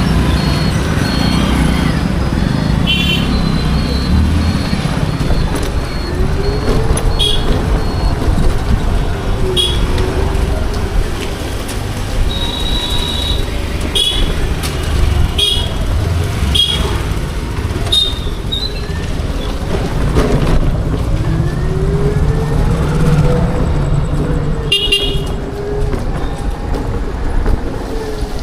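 Road traffic heard from a moving scooter: many short vehicle horn toots, one after another, over a steady low road rumble. Twice a low whine slowly rises and falls in pitch.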